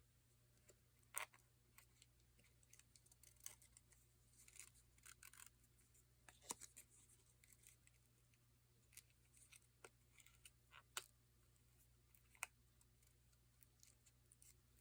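Faint, scattered small clicks and rustles of paper and organza being handled.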